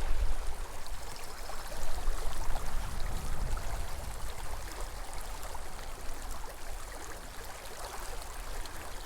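Small mountain creek flowing steadily over rocks, an even rush of water.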